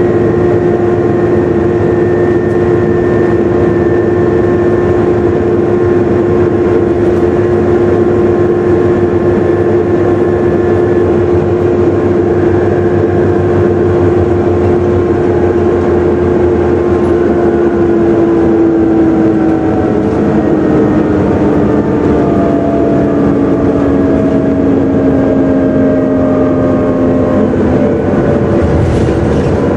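Inside a Volvo B7TL double-decker bus on the move: the drivetrain runs with a loud, steady whine, the vacuum-cleaner-like 'hoover' sound these buses are known for. Past the middle, the whine slides down in pitch as the bus slows.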